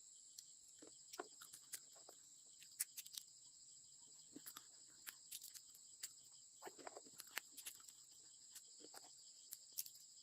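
Faint, steady high-pitched chorus of insects, crickets by the sound, running without a break. Scattered soft clicks and crackles are heard over it.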